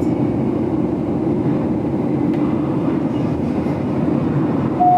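Steady rumble of the GoldenPass Belle Époque train running along the track, heard from inside the carriage. Near the end a chime tone begins, the onboard signal that comes before the stop announcement.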